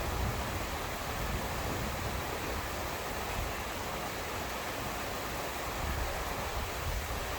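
Steady rain falling, an even hiss with no breaks and a low, shifting rumble underneath.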